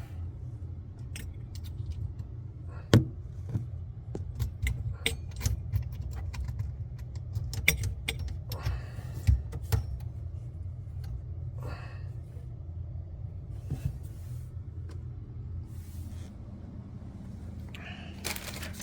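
Small metal plumbing parts and tools clinking and tapping as a 3/8 compression fitting is handled and fitted, in irregular sharp clicks with the loudest about three seconds in. A steady low hum runs underneath.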